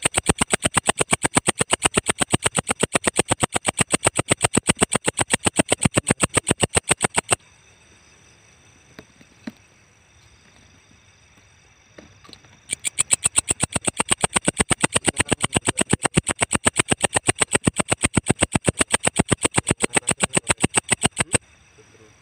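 Walang ecek katydid calling: a fast, even train of sharp, high chirps, about eight a second. It comes in two long bouts of roughly eight seconds each, with a pause of about five seconds between them.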